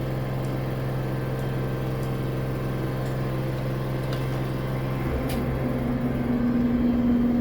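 Older clothes dryer running with a steady mechanical hum that is pretty loud, put down to the machine's age. About five seconds in the hum shifts to a higher, louder tone.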